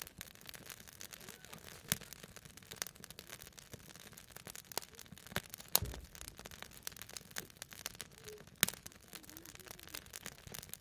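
Wood campfire crackling, with irregular sharp pops from the burning logs; the loudest pops come about 2, 6 and 8.5 seconds in.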